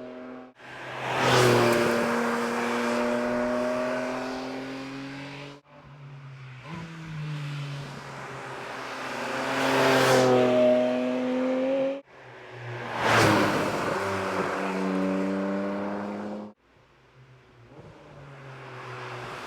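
Porsche 718 Cayman GT4 RS's naturally aspirated flat-six engine and exhaust, heard in several edited shots of the car driving by: the engine note swells as it approaches and fades as it passes, with sudden cuts between shots.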